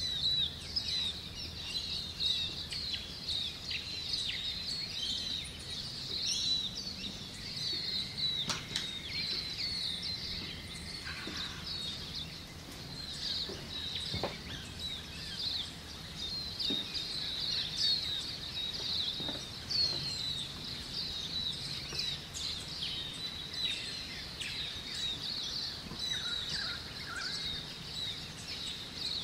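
Many small birds chirping continuously, a dense chorus of short high-pitched calls. A thin steady whistle-like tone sounds for a few seconds about a quarter of the way in.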